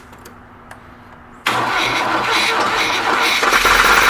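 A 1991 Pontiac Firebird's engine cranking on its starter, beginning about a second and a half in and running for about three and a half seconds, a little louder toward the end, without settling into a steady run: a hard-starting engine that will not catch.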